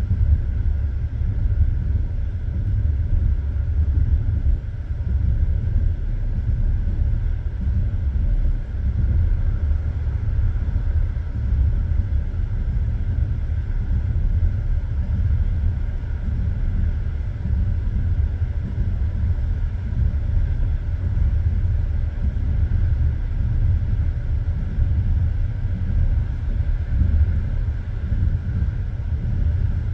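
Passenger train running along the track: a steady low rumble of the carriage's wheels on the rails.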